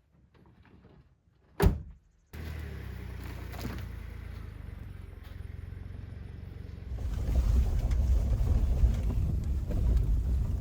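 A single sharp knock, then a truck running steadily as it drives along a dirt road. About two-thirds of the way through, the low rumble of engine and road noise grows louder and rougher.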